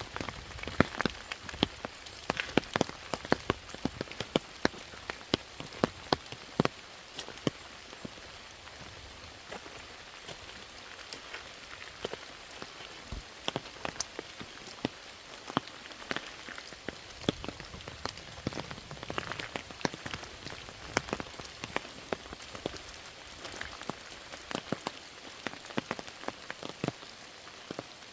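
Rain falling steadily: a constant hiss with many sharp, close drop strikes, thickest in the first several seconds and coming in clusters after that.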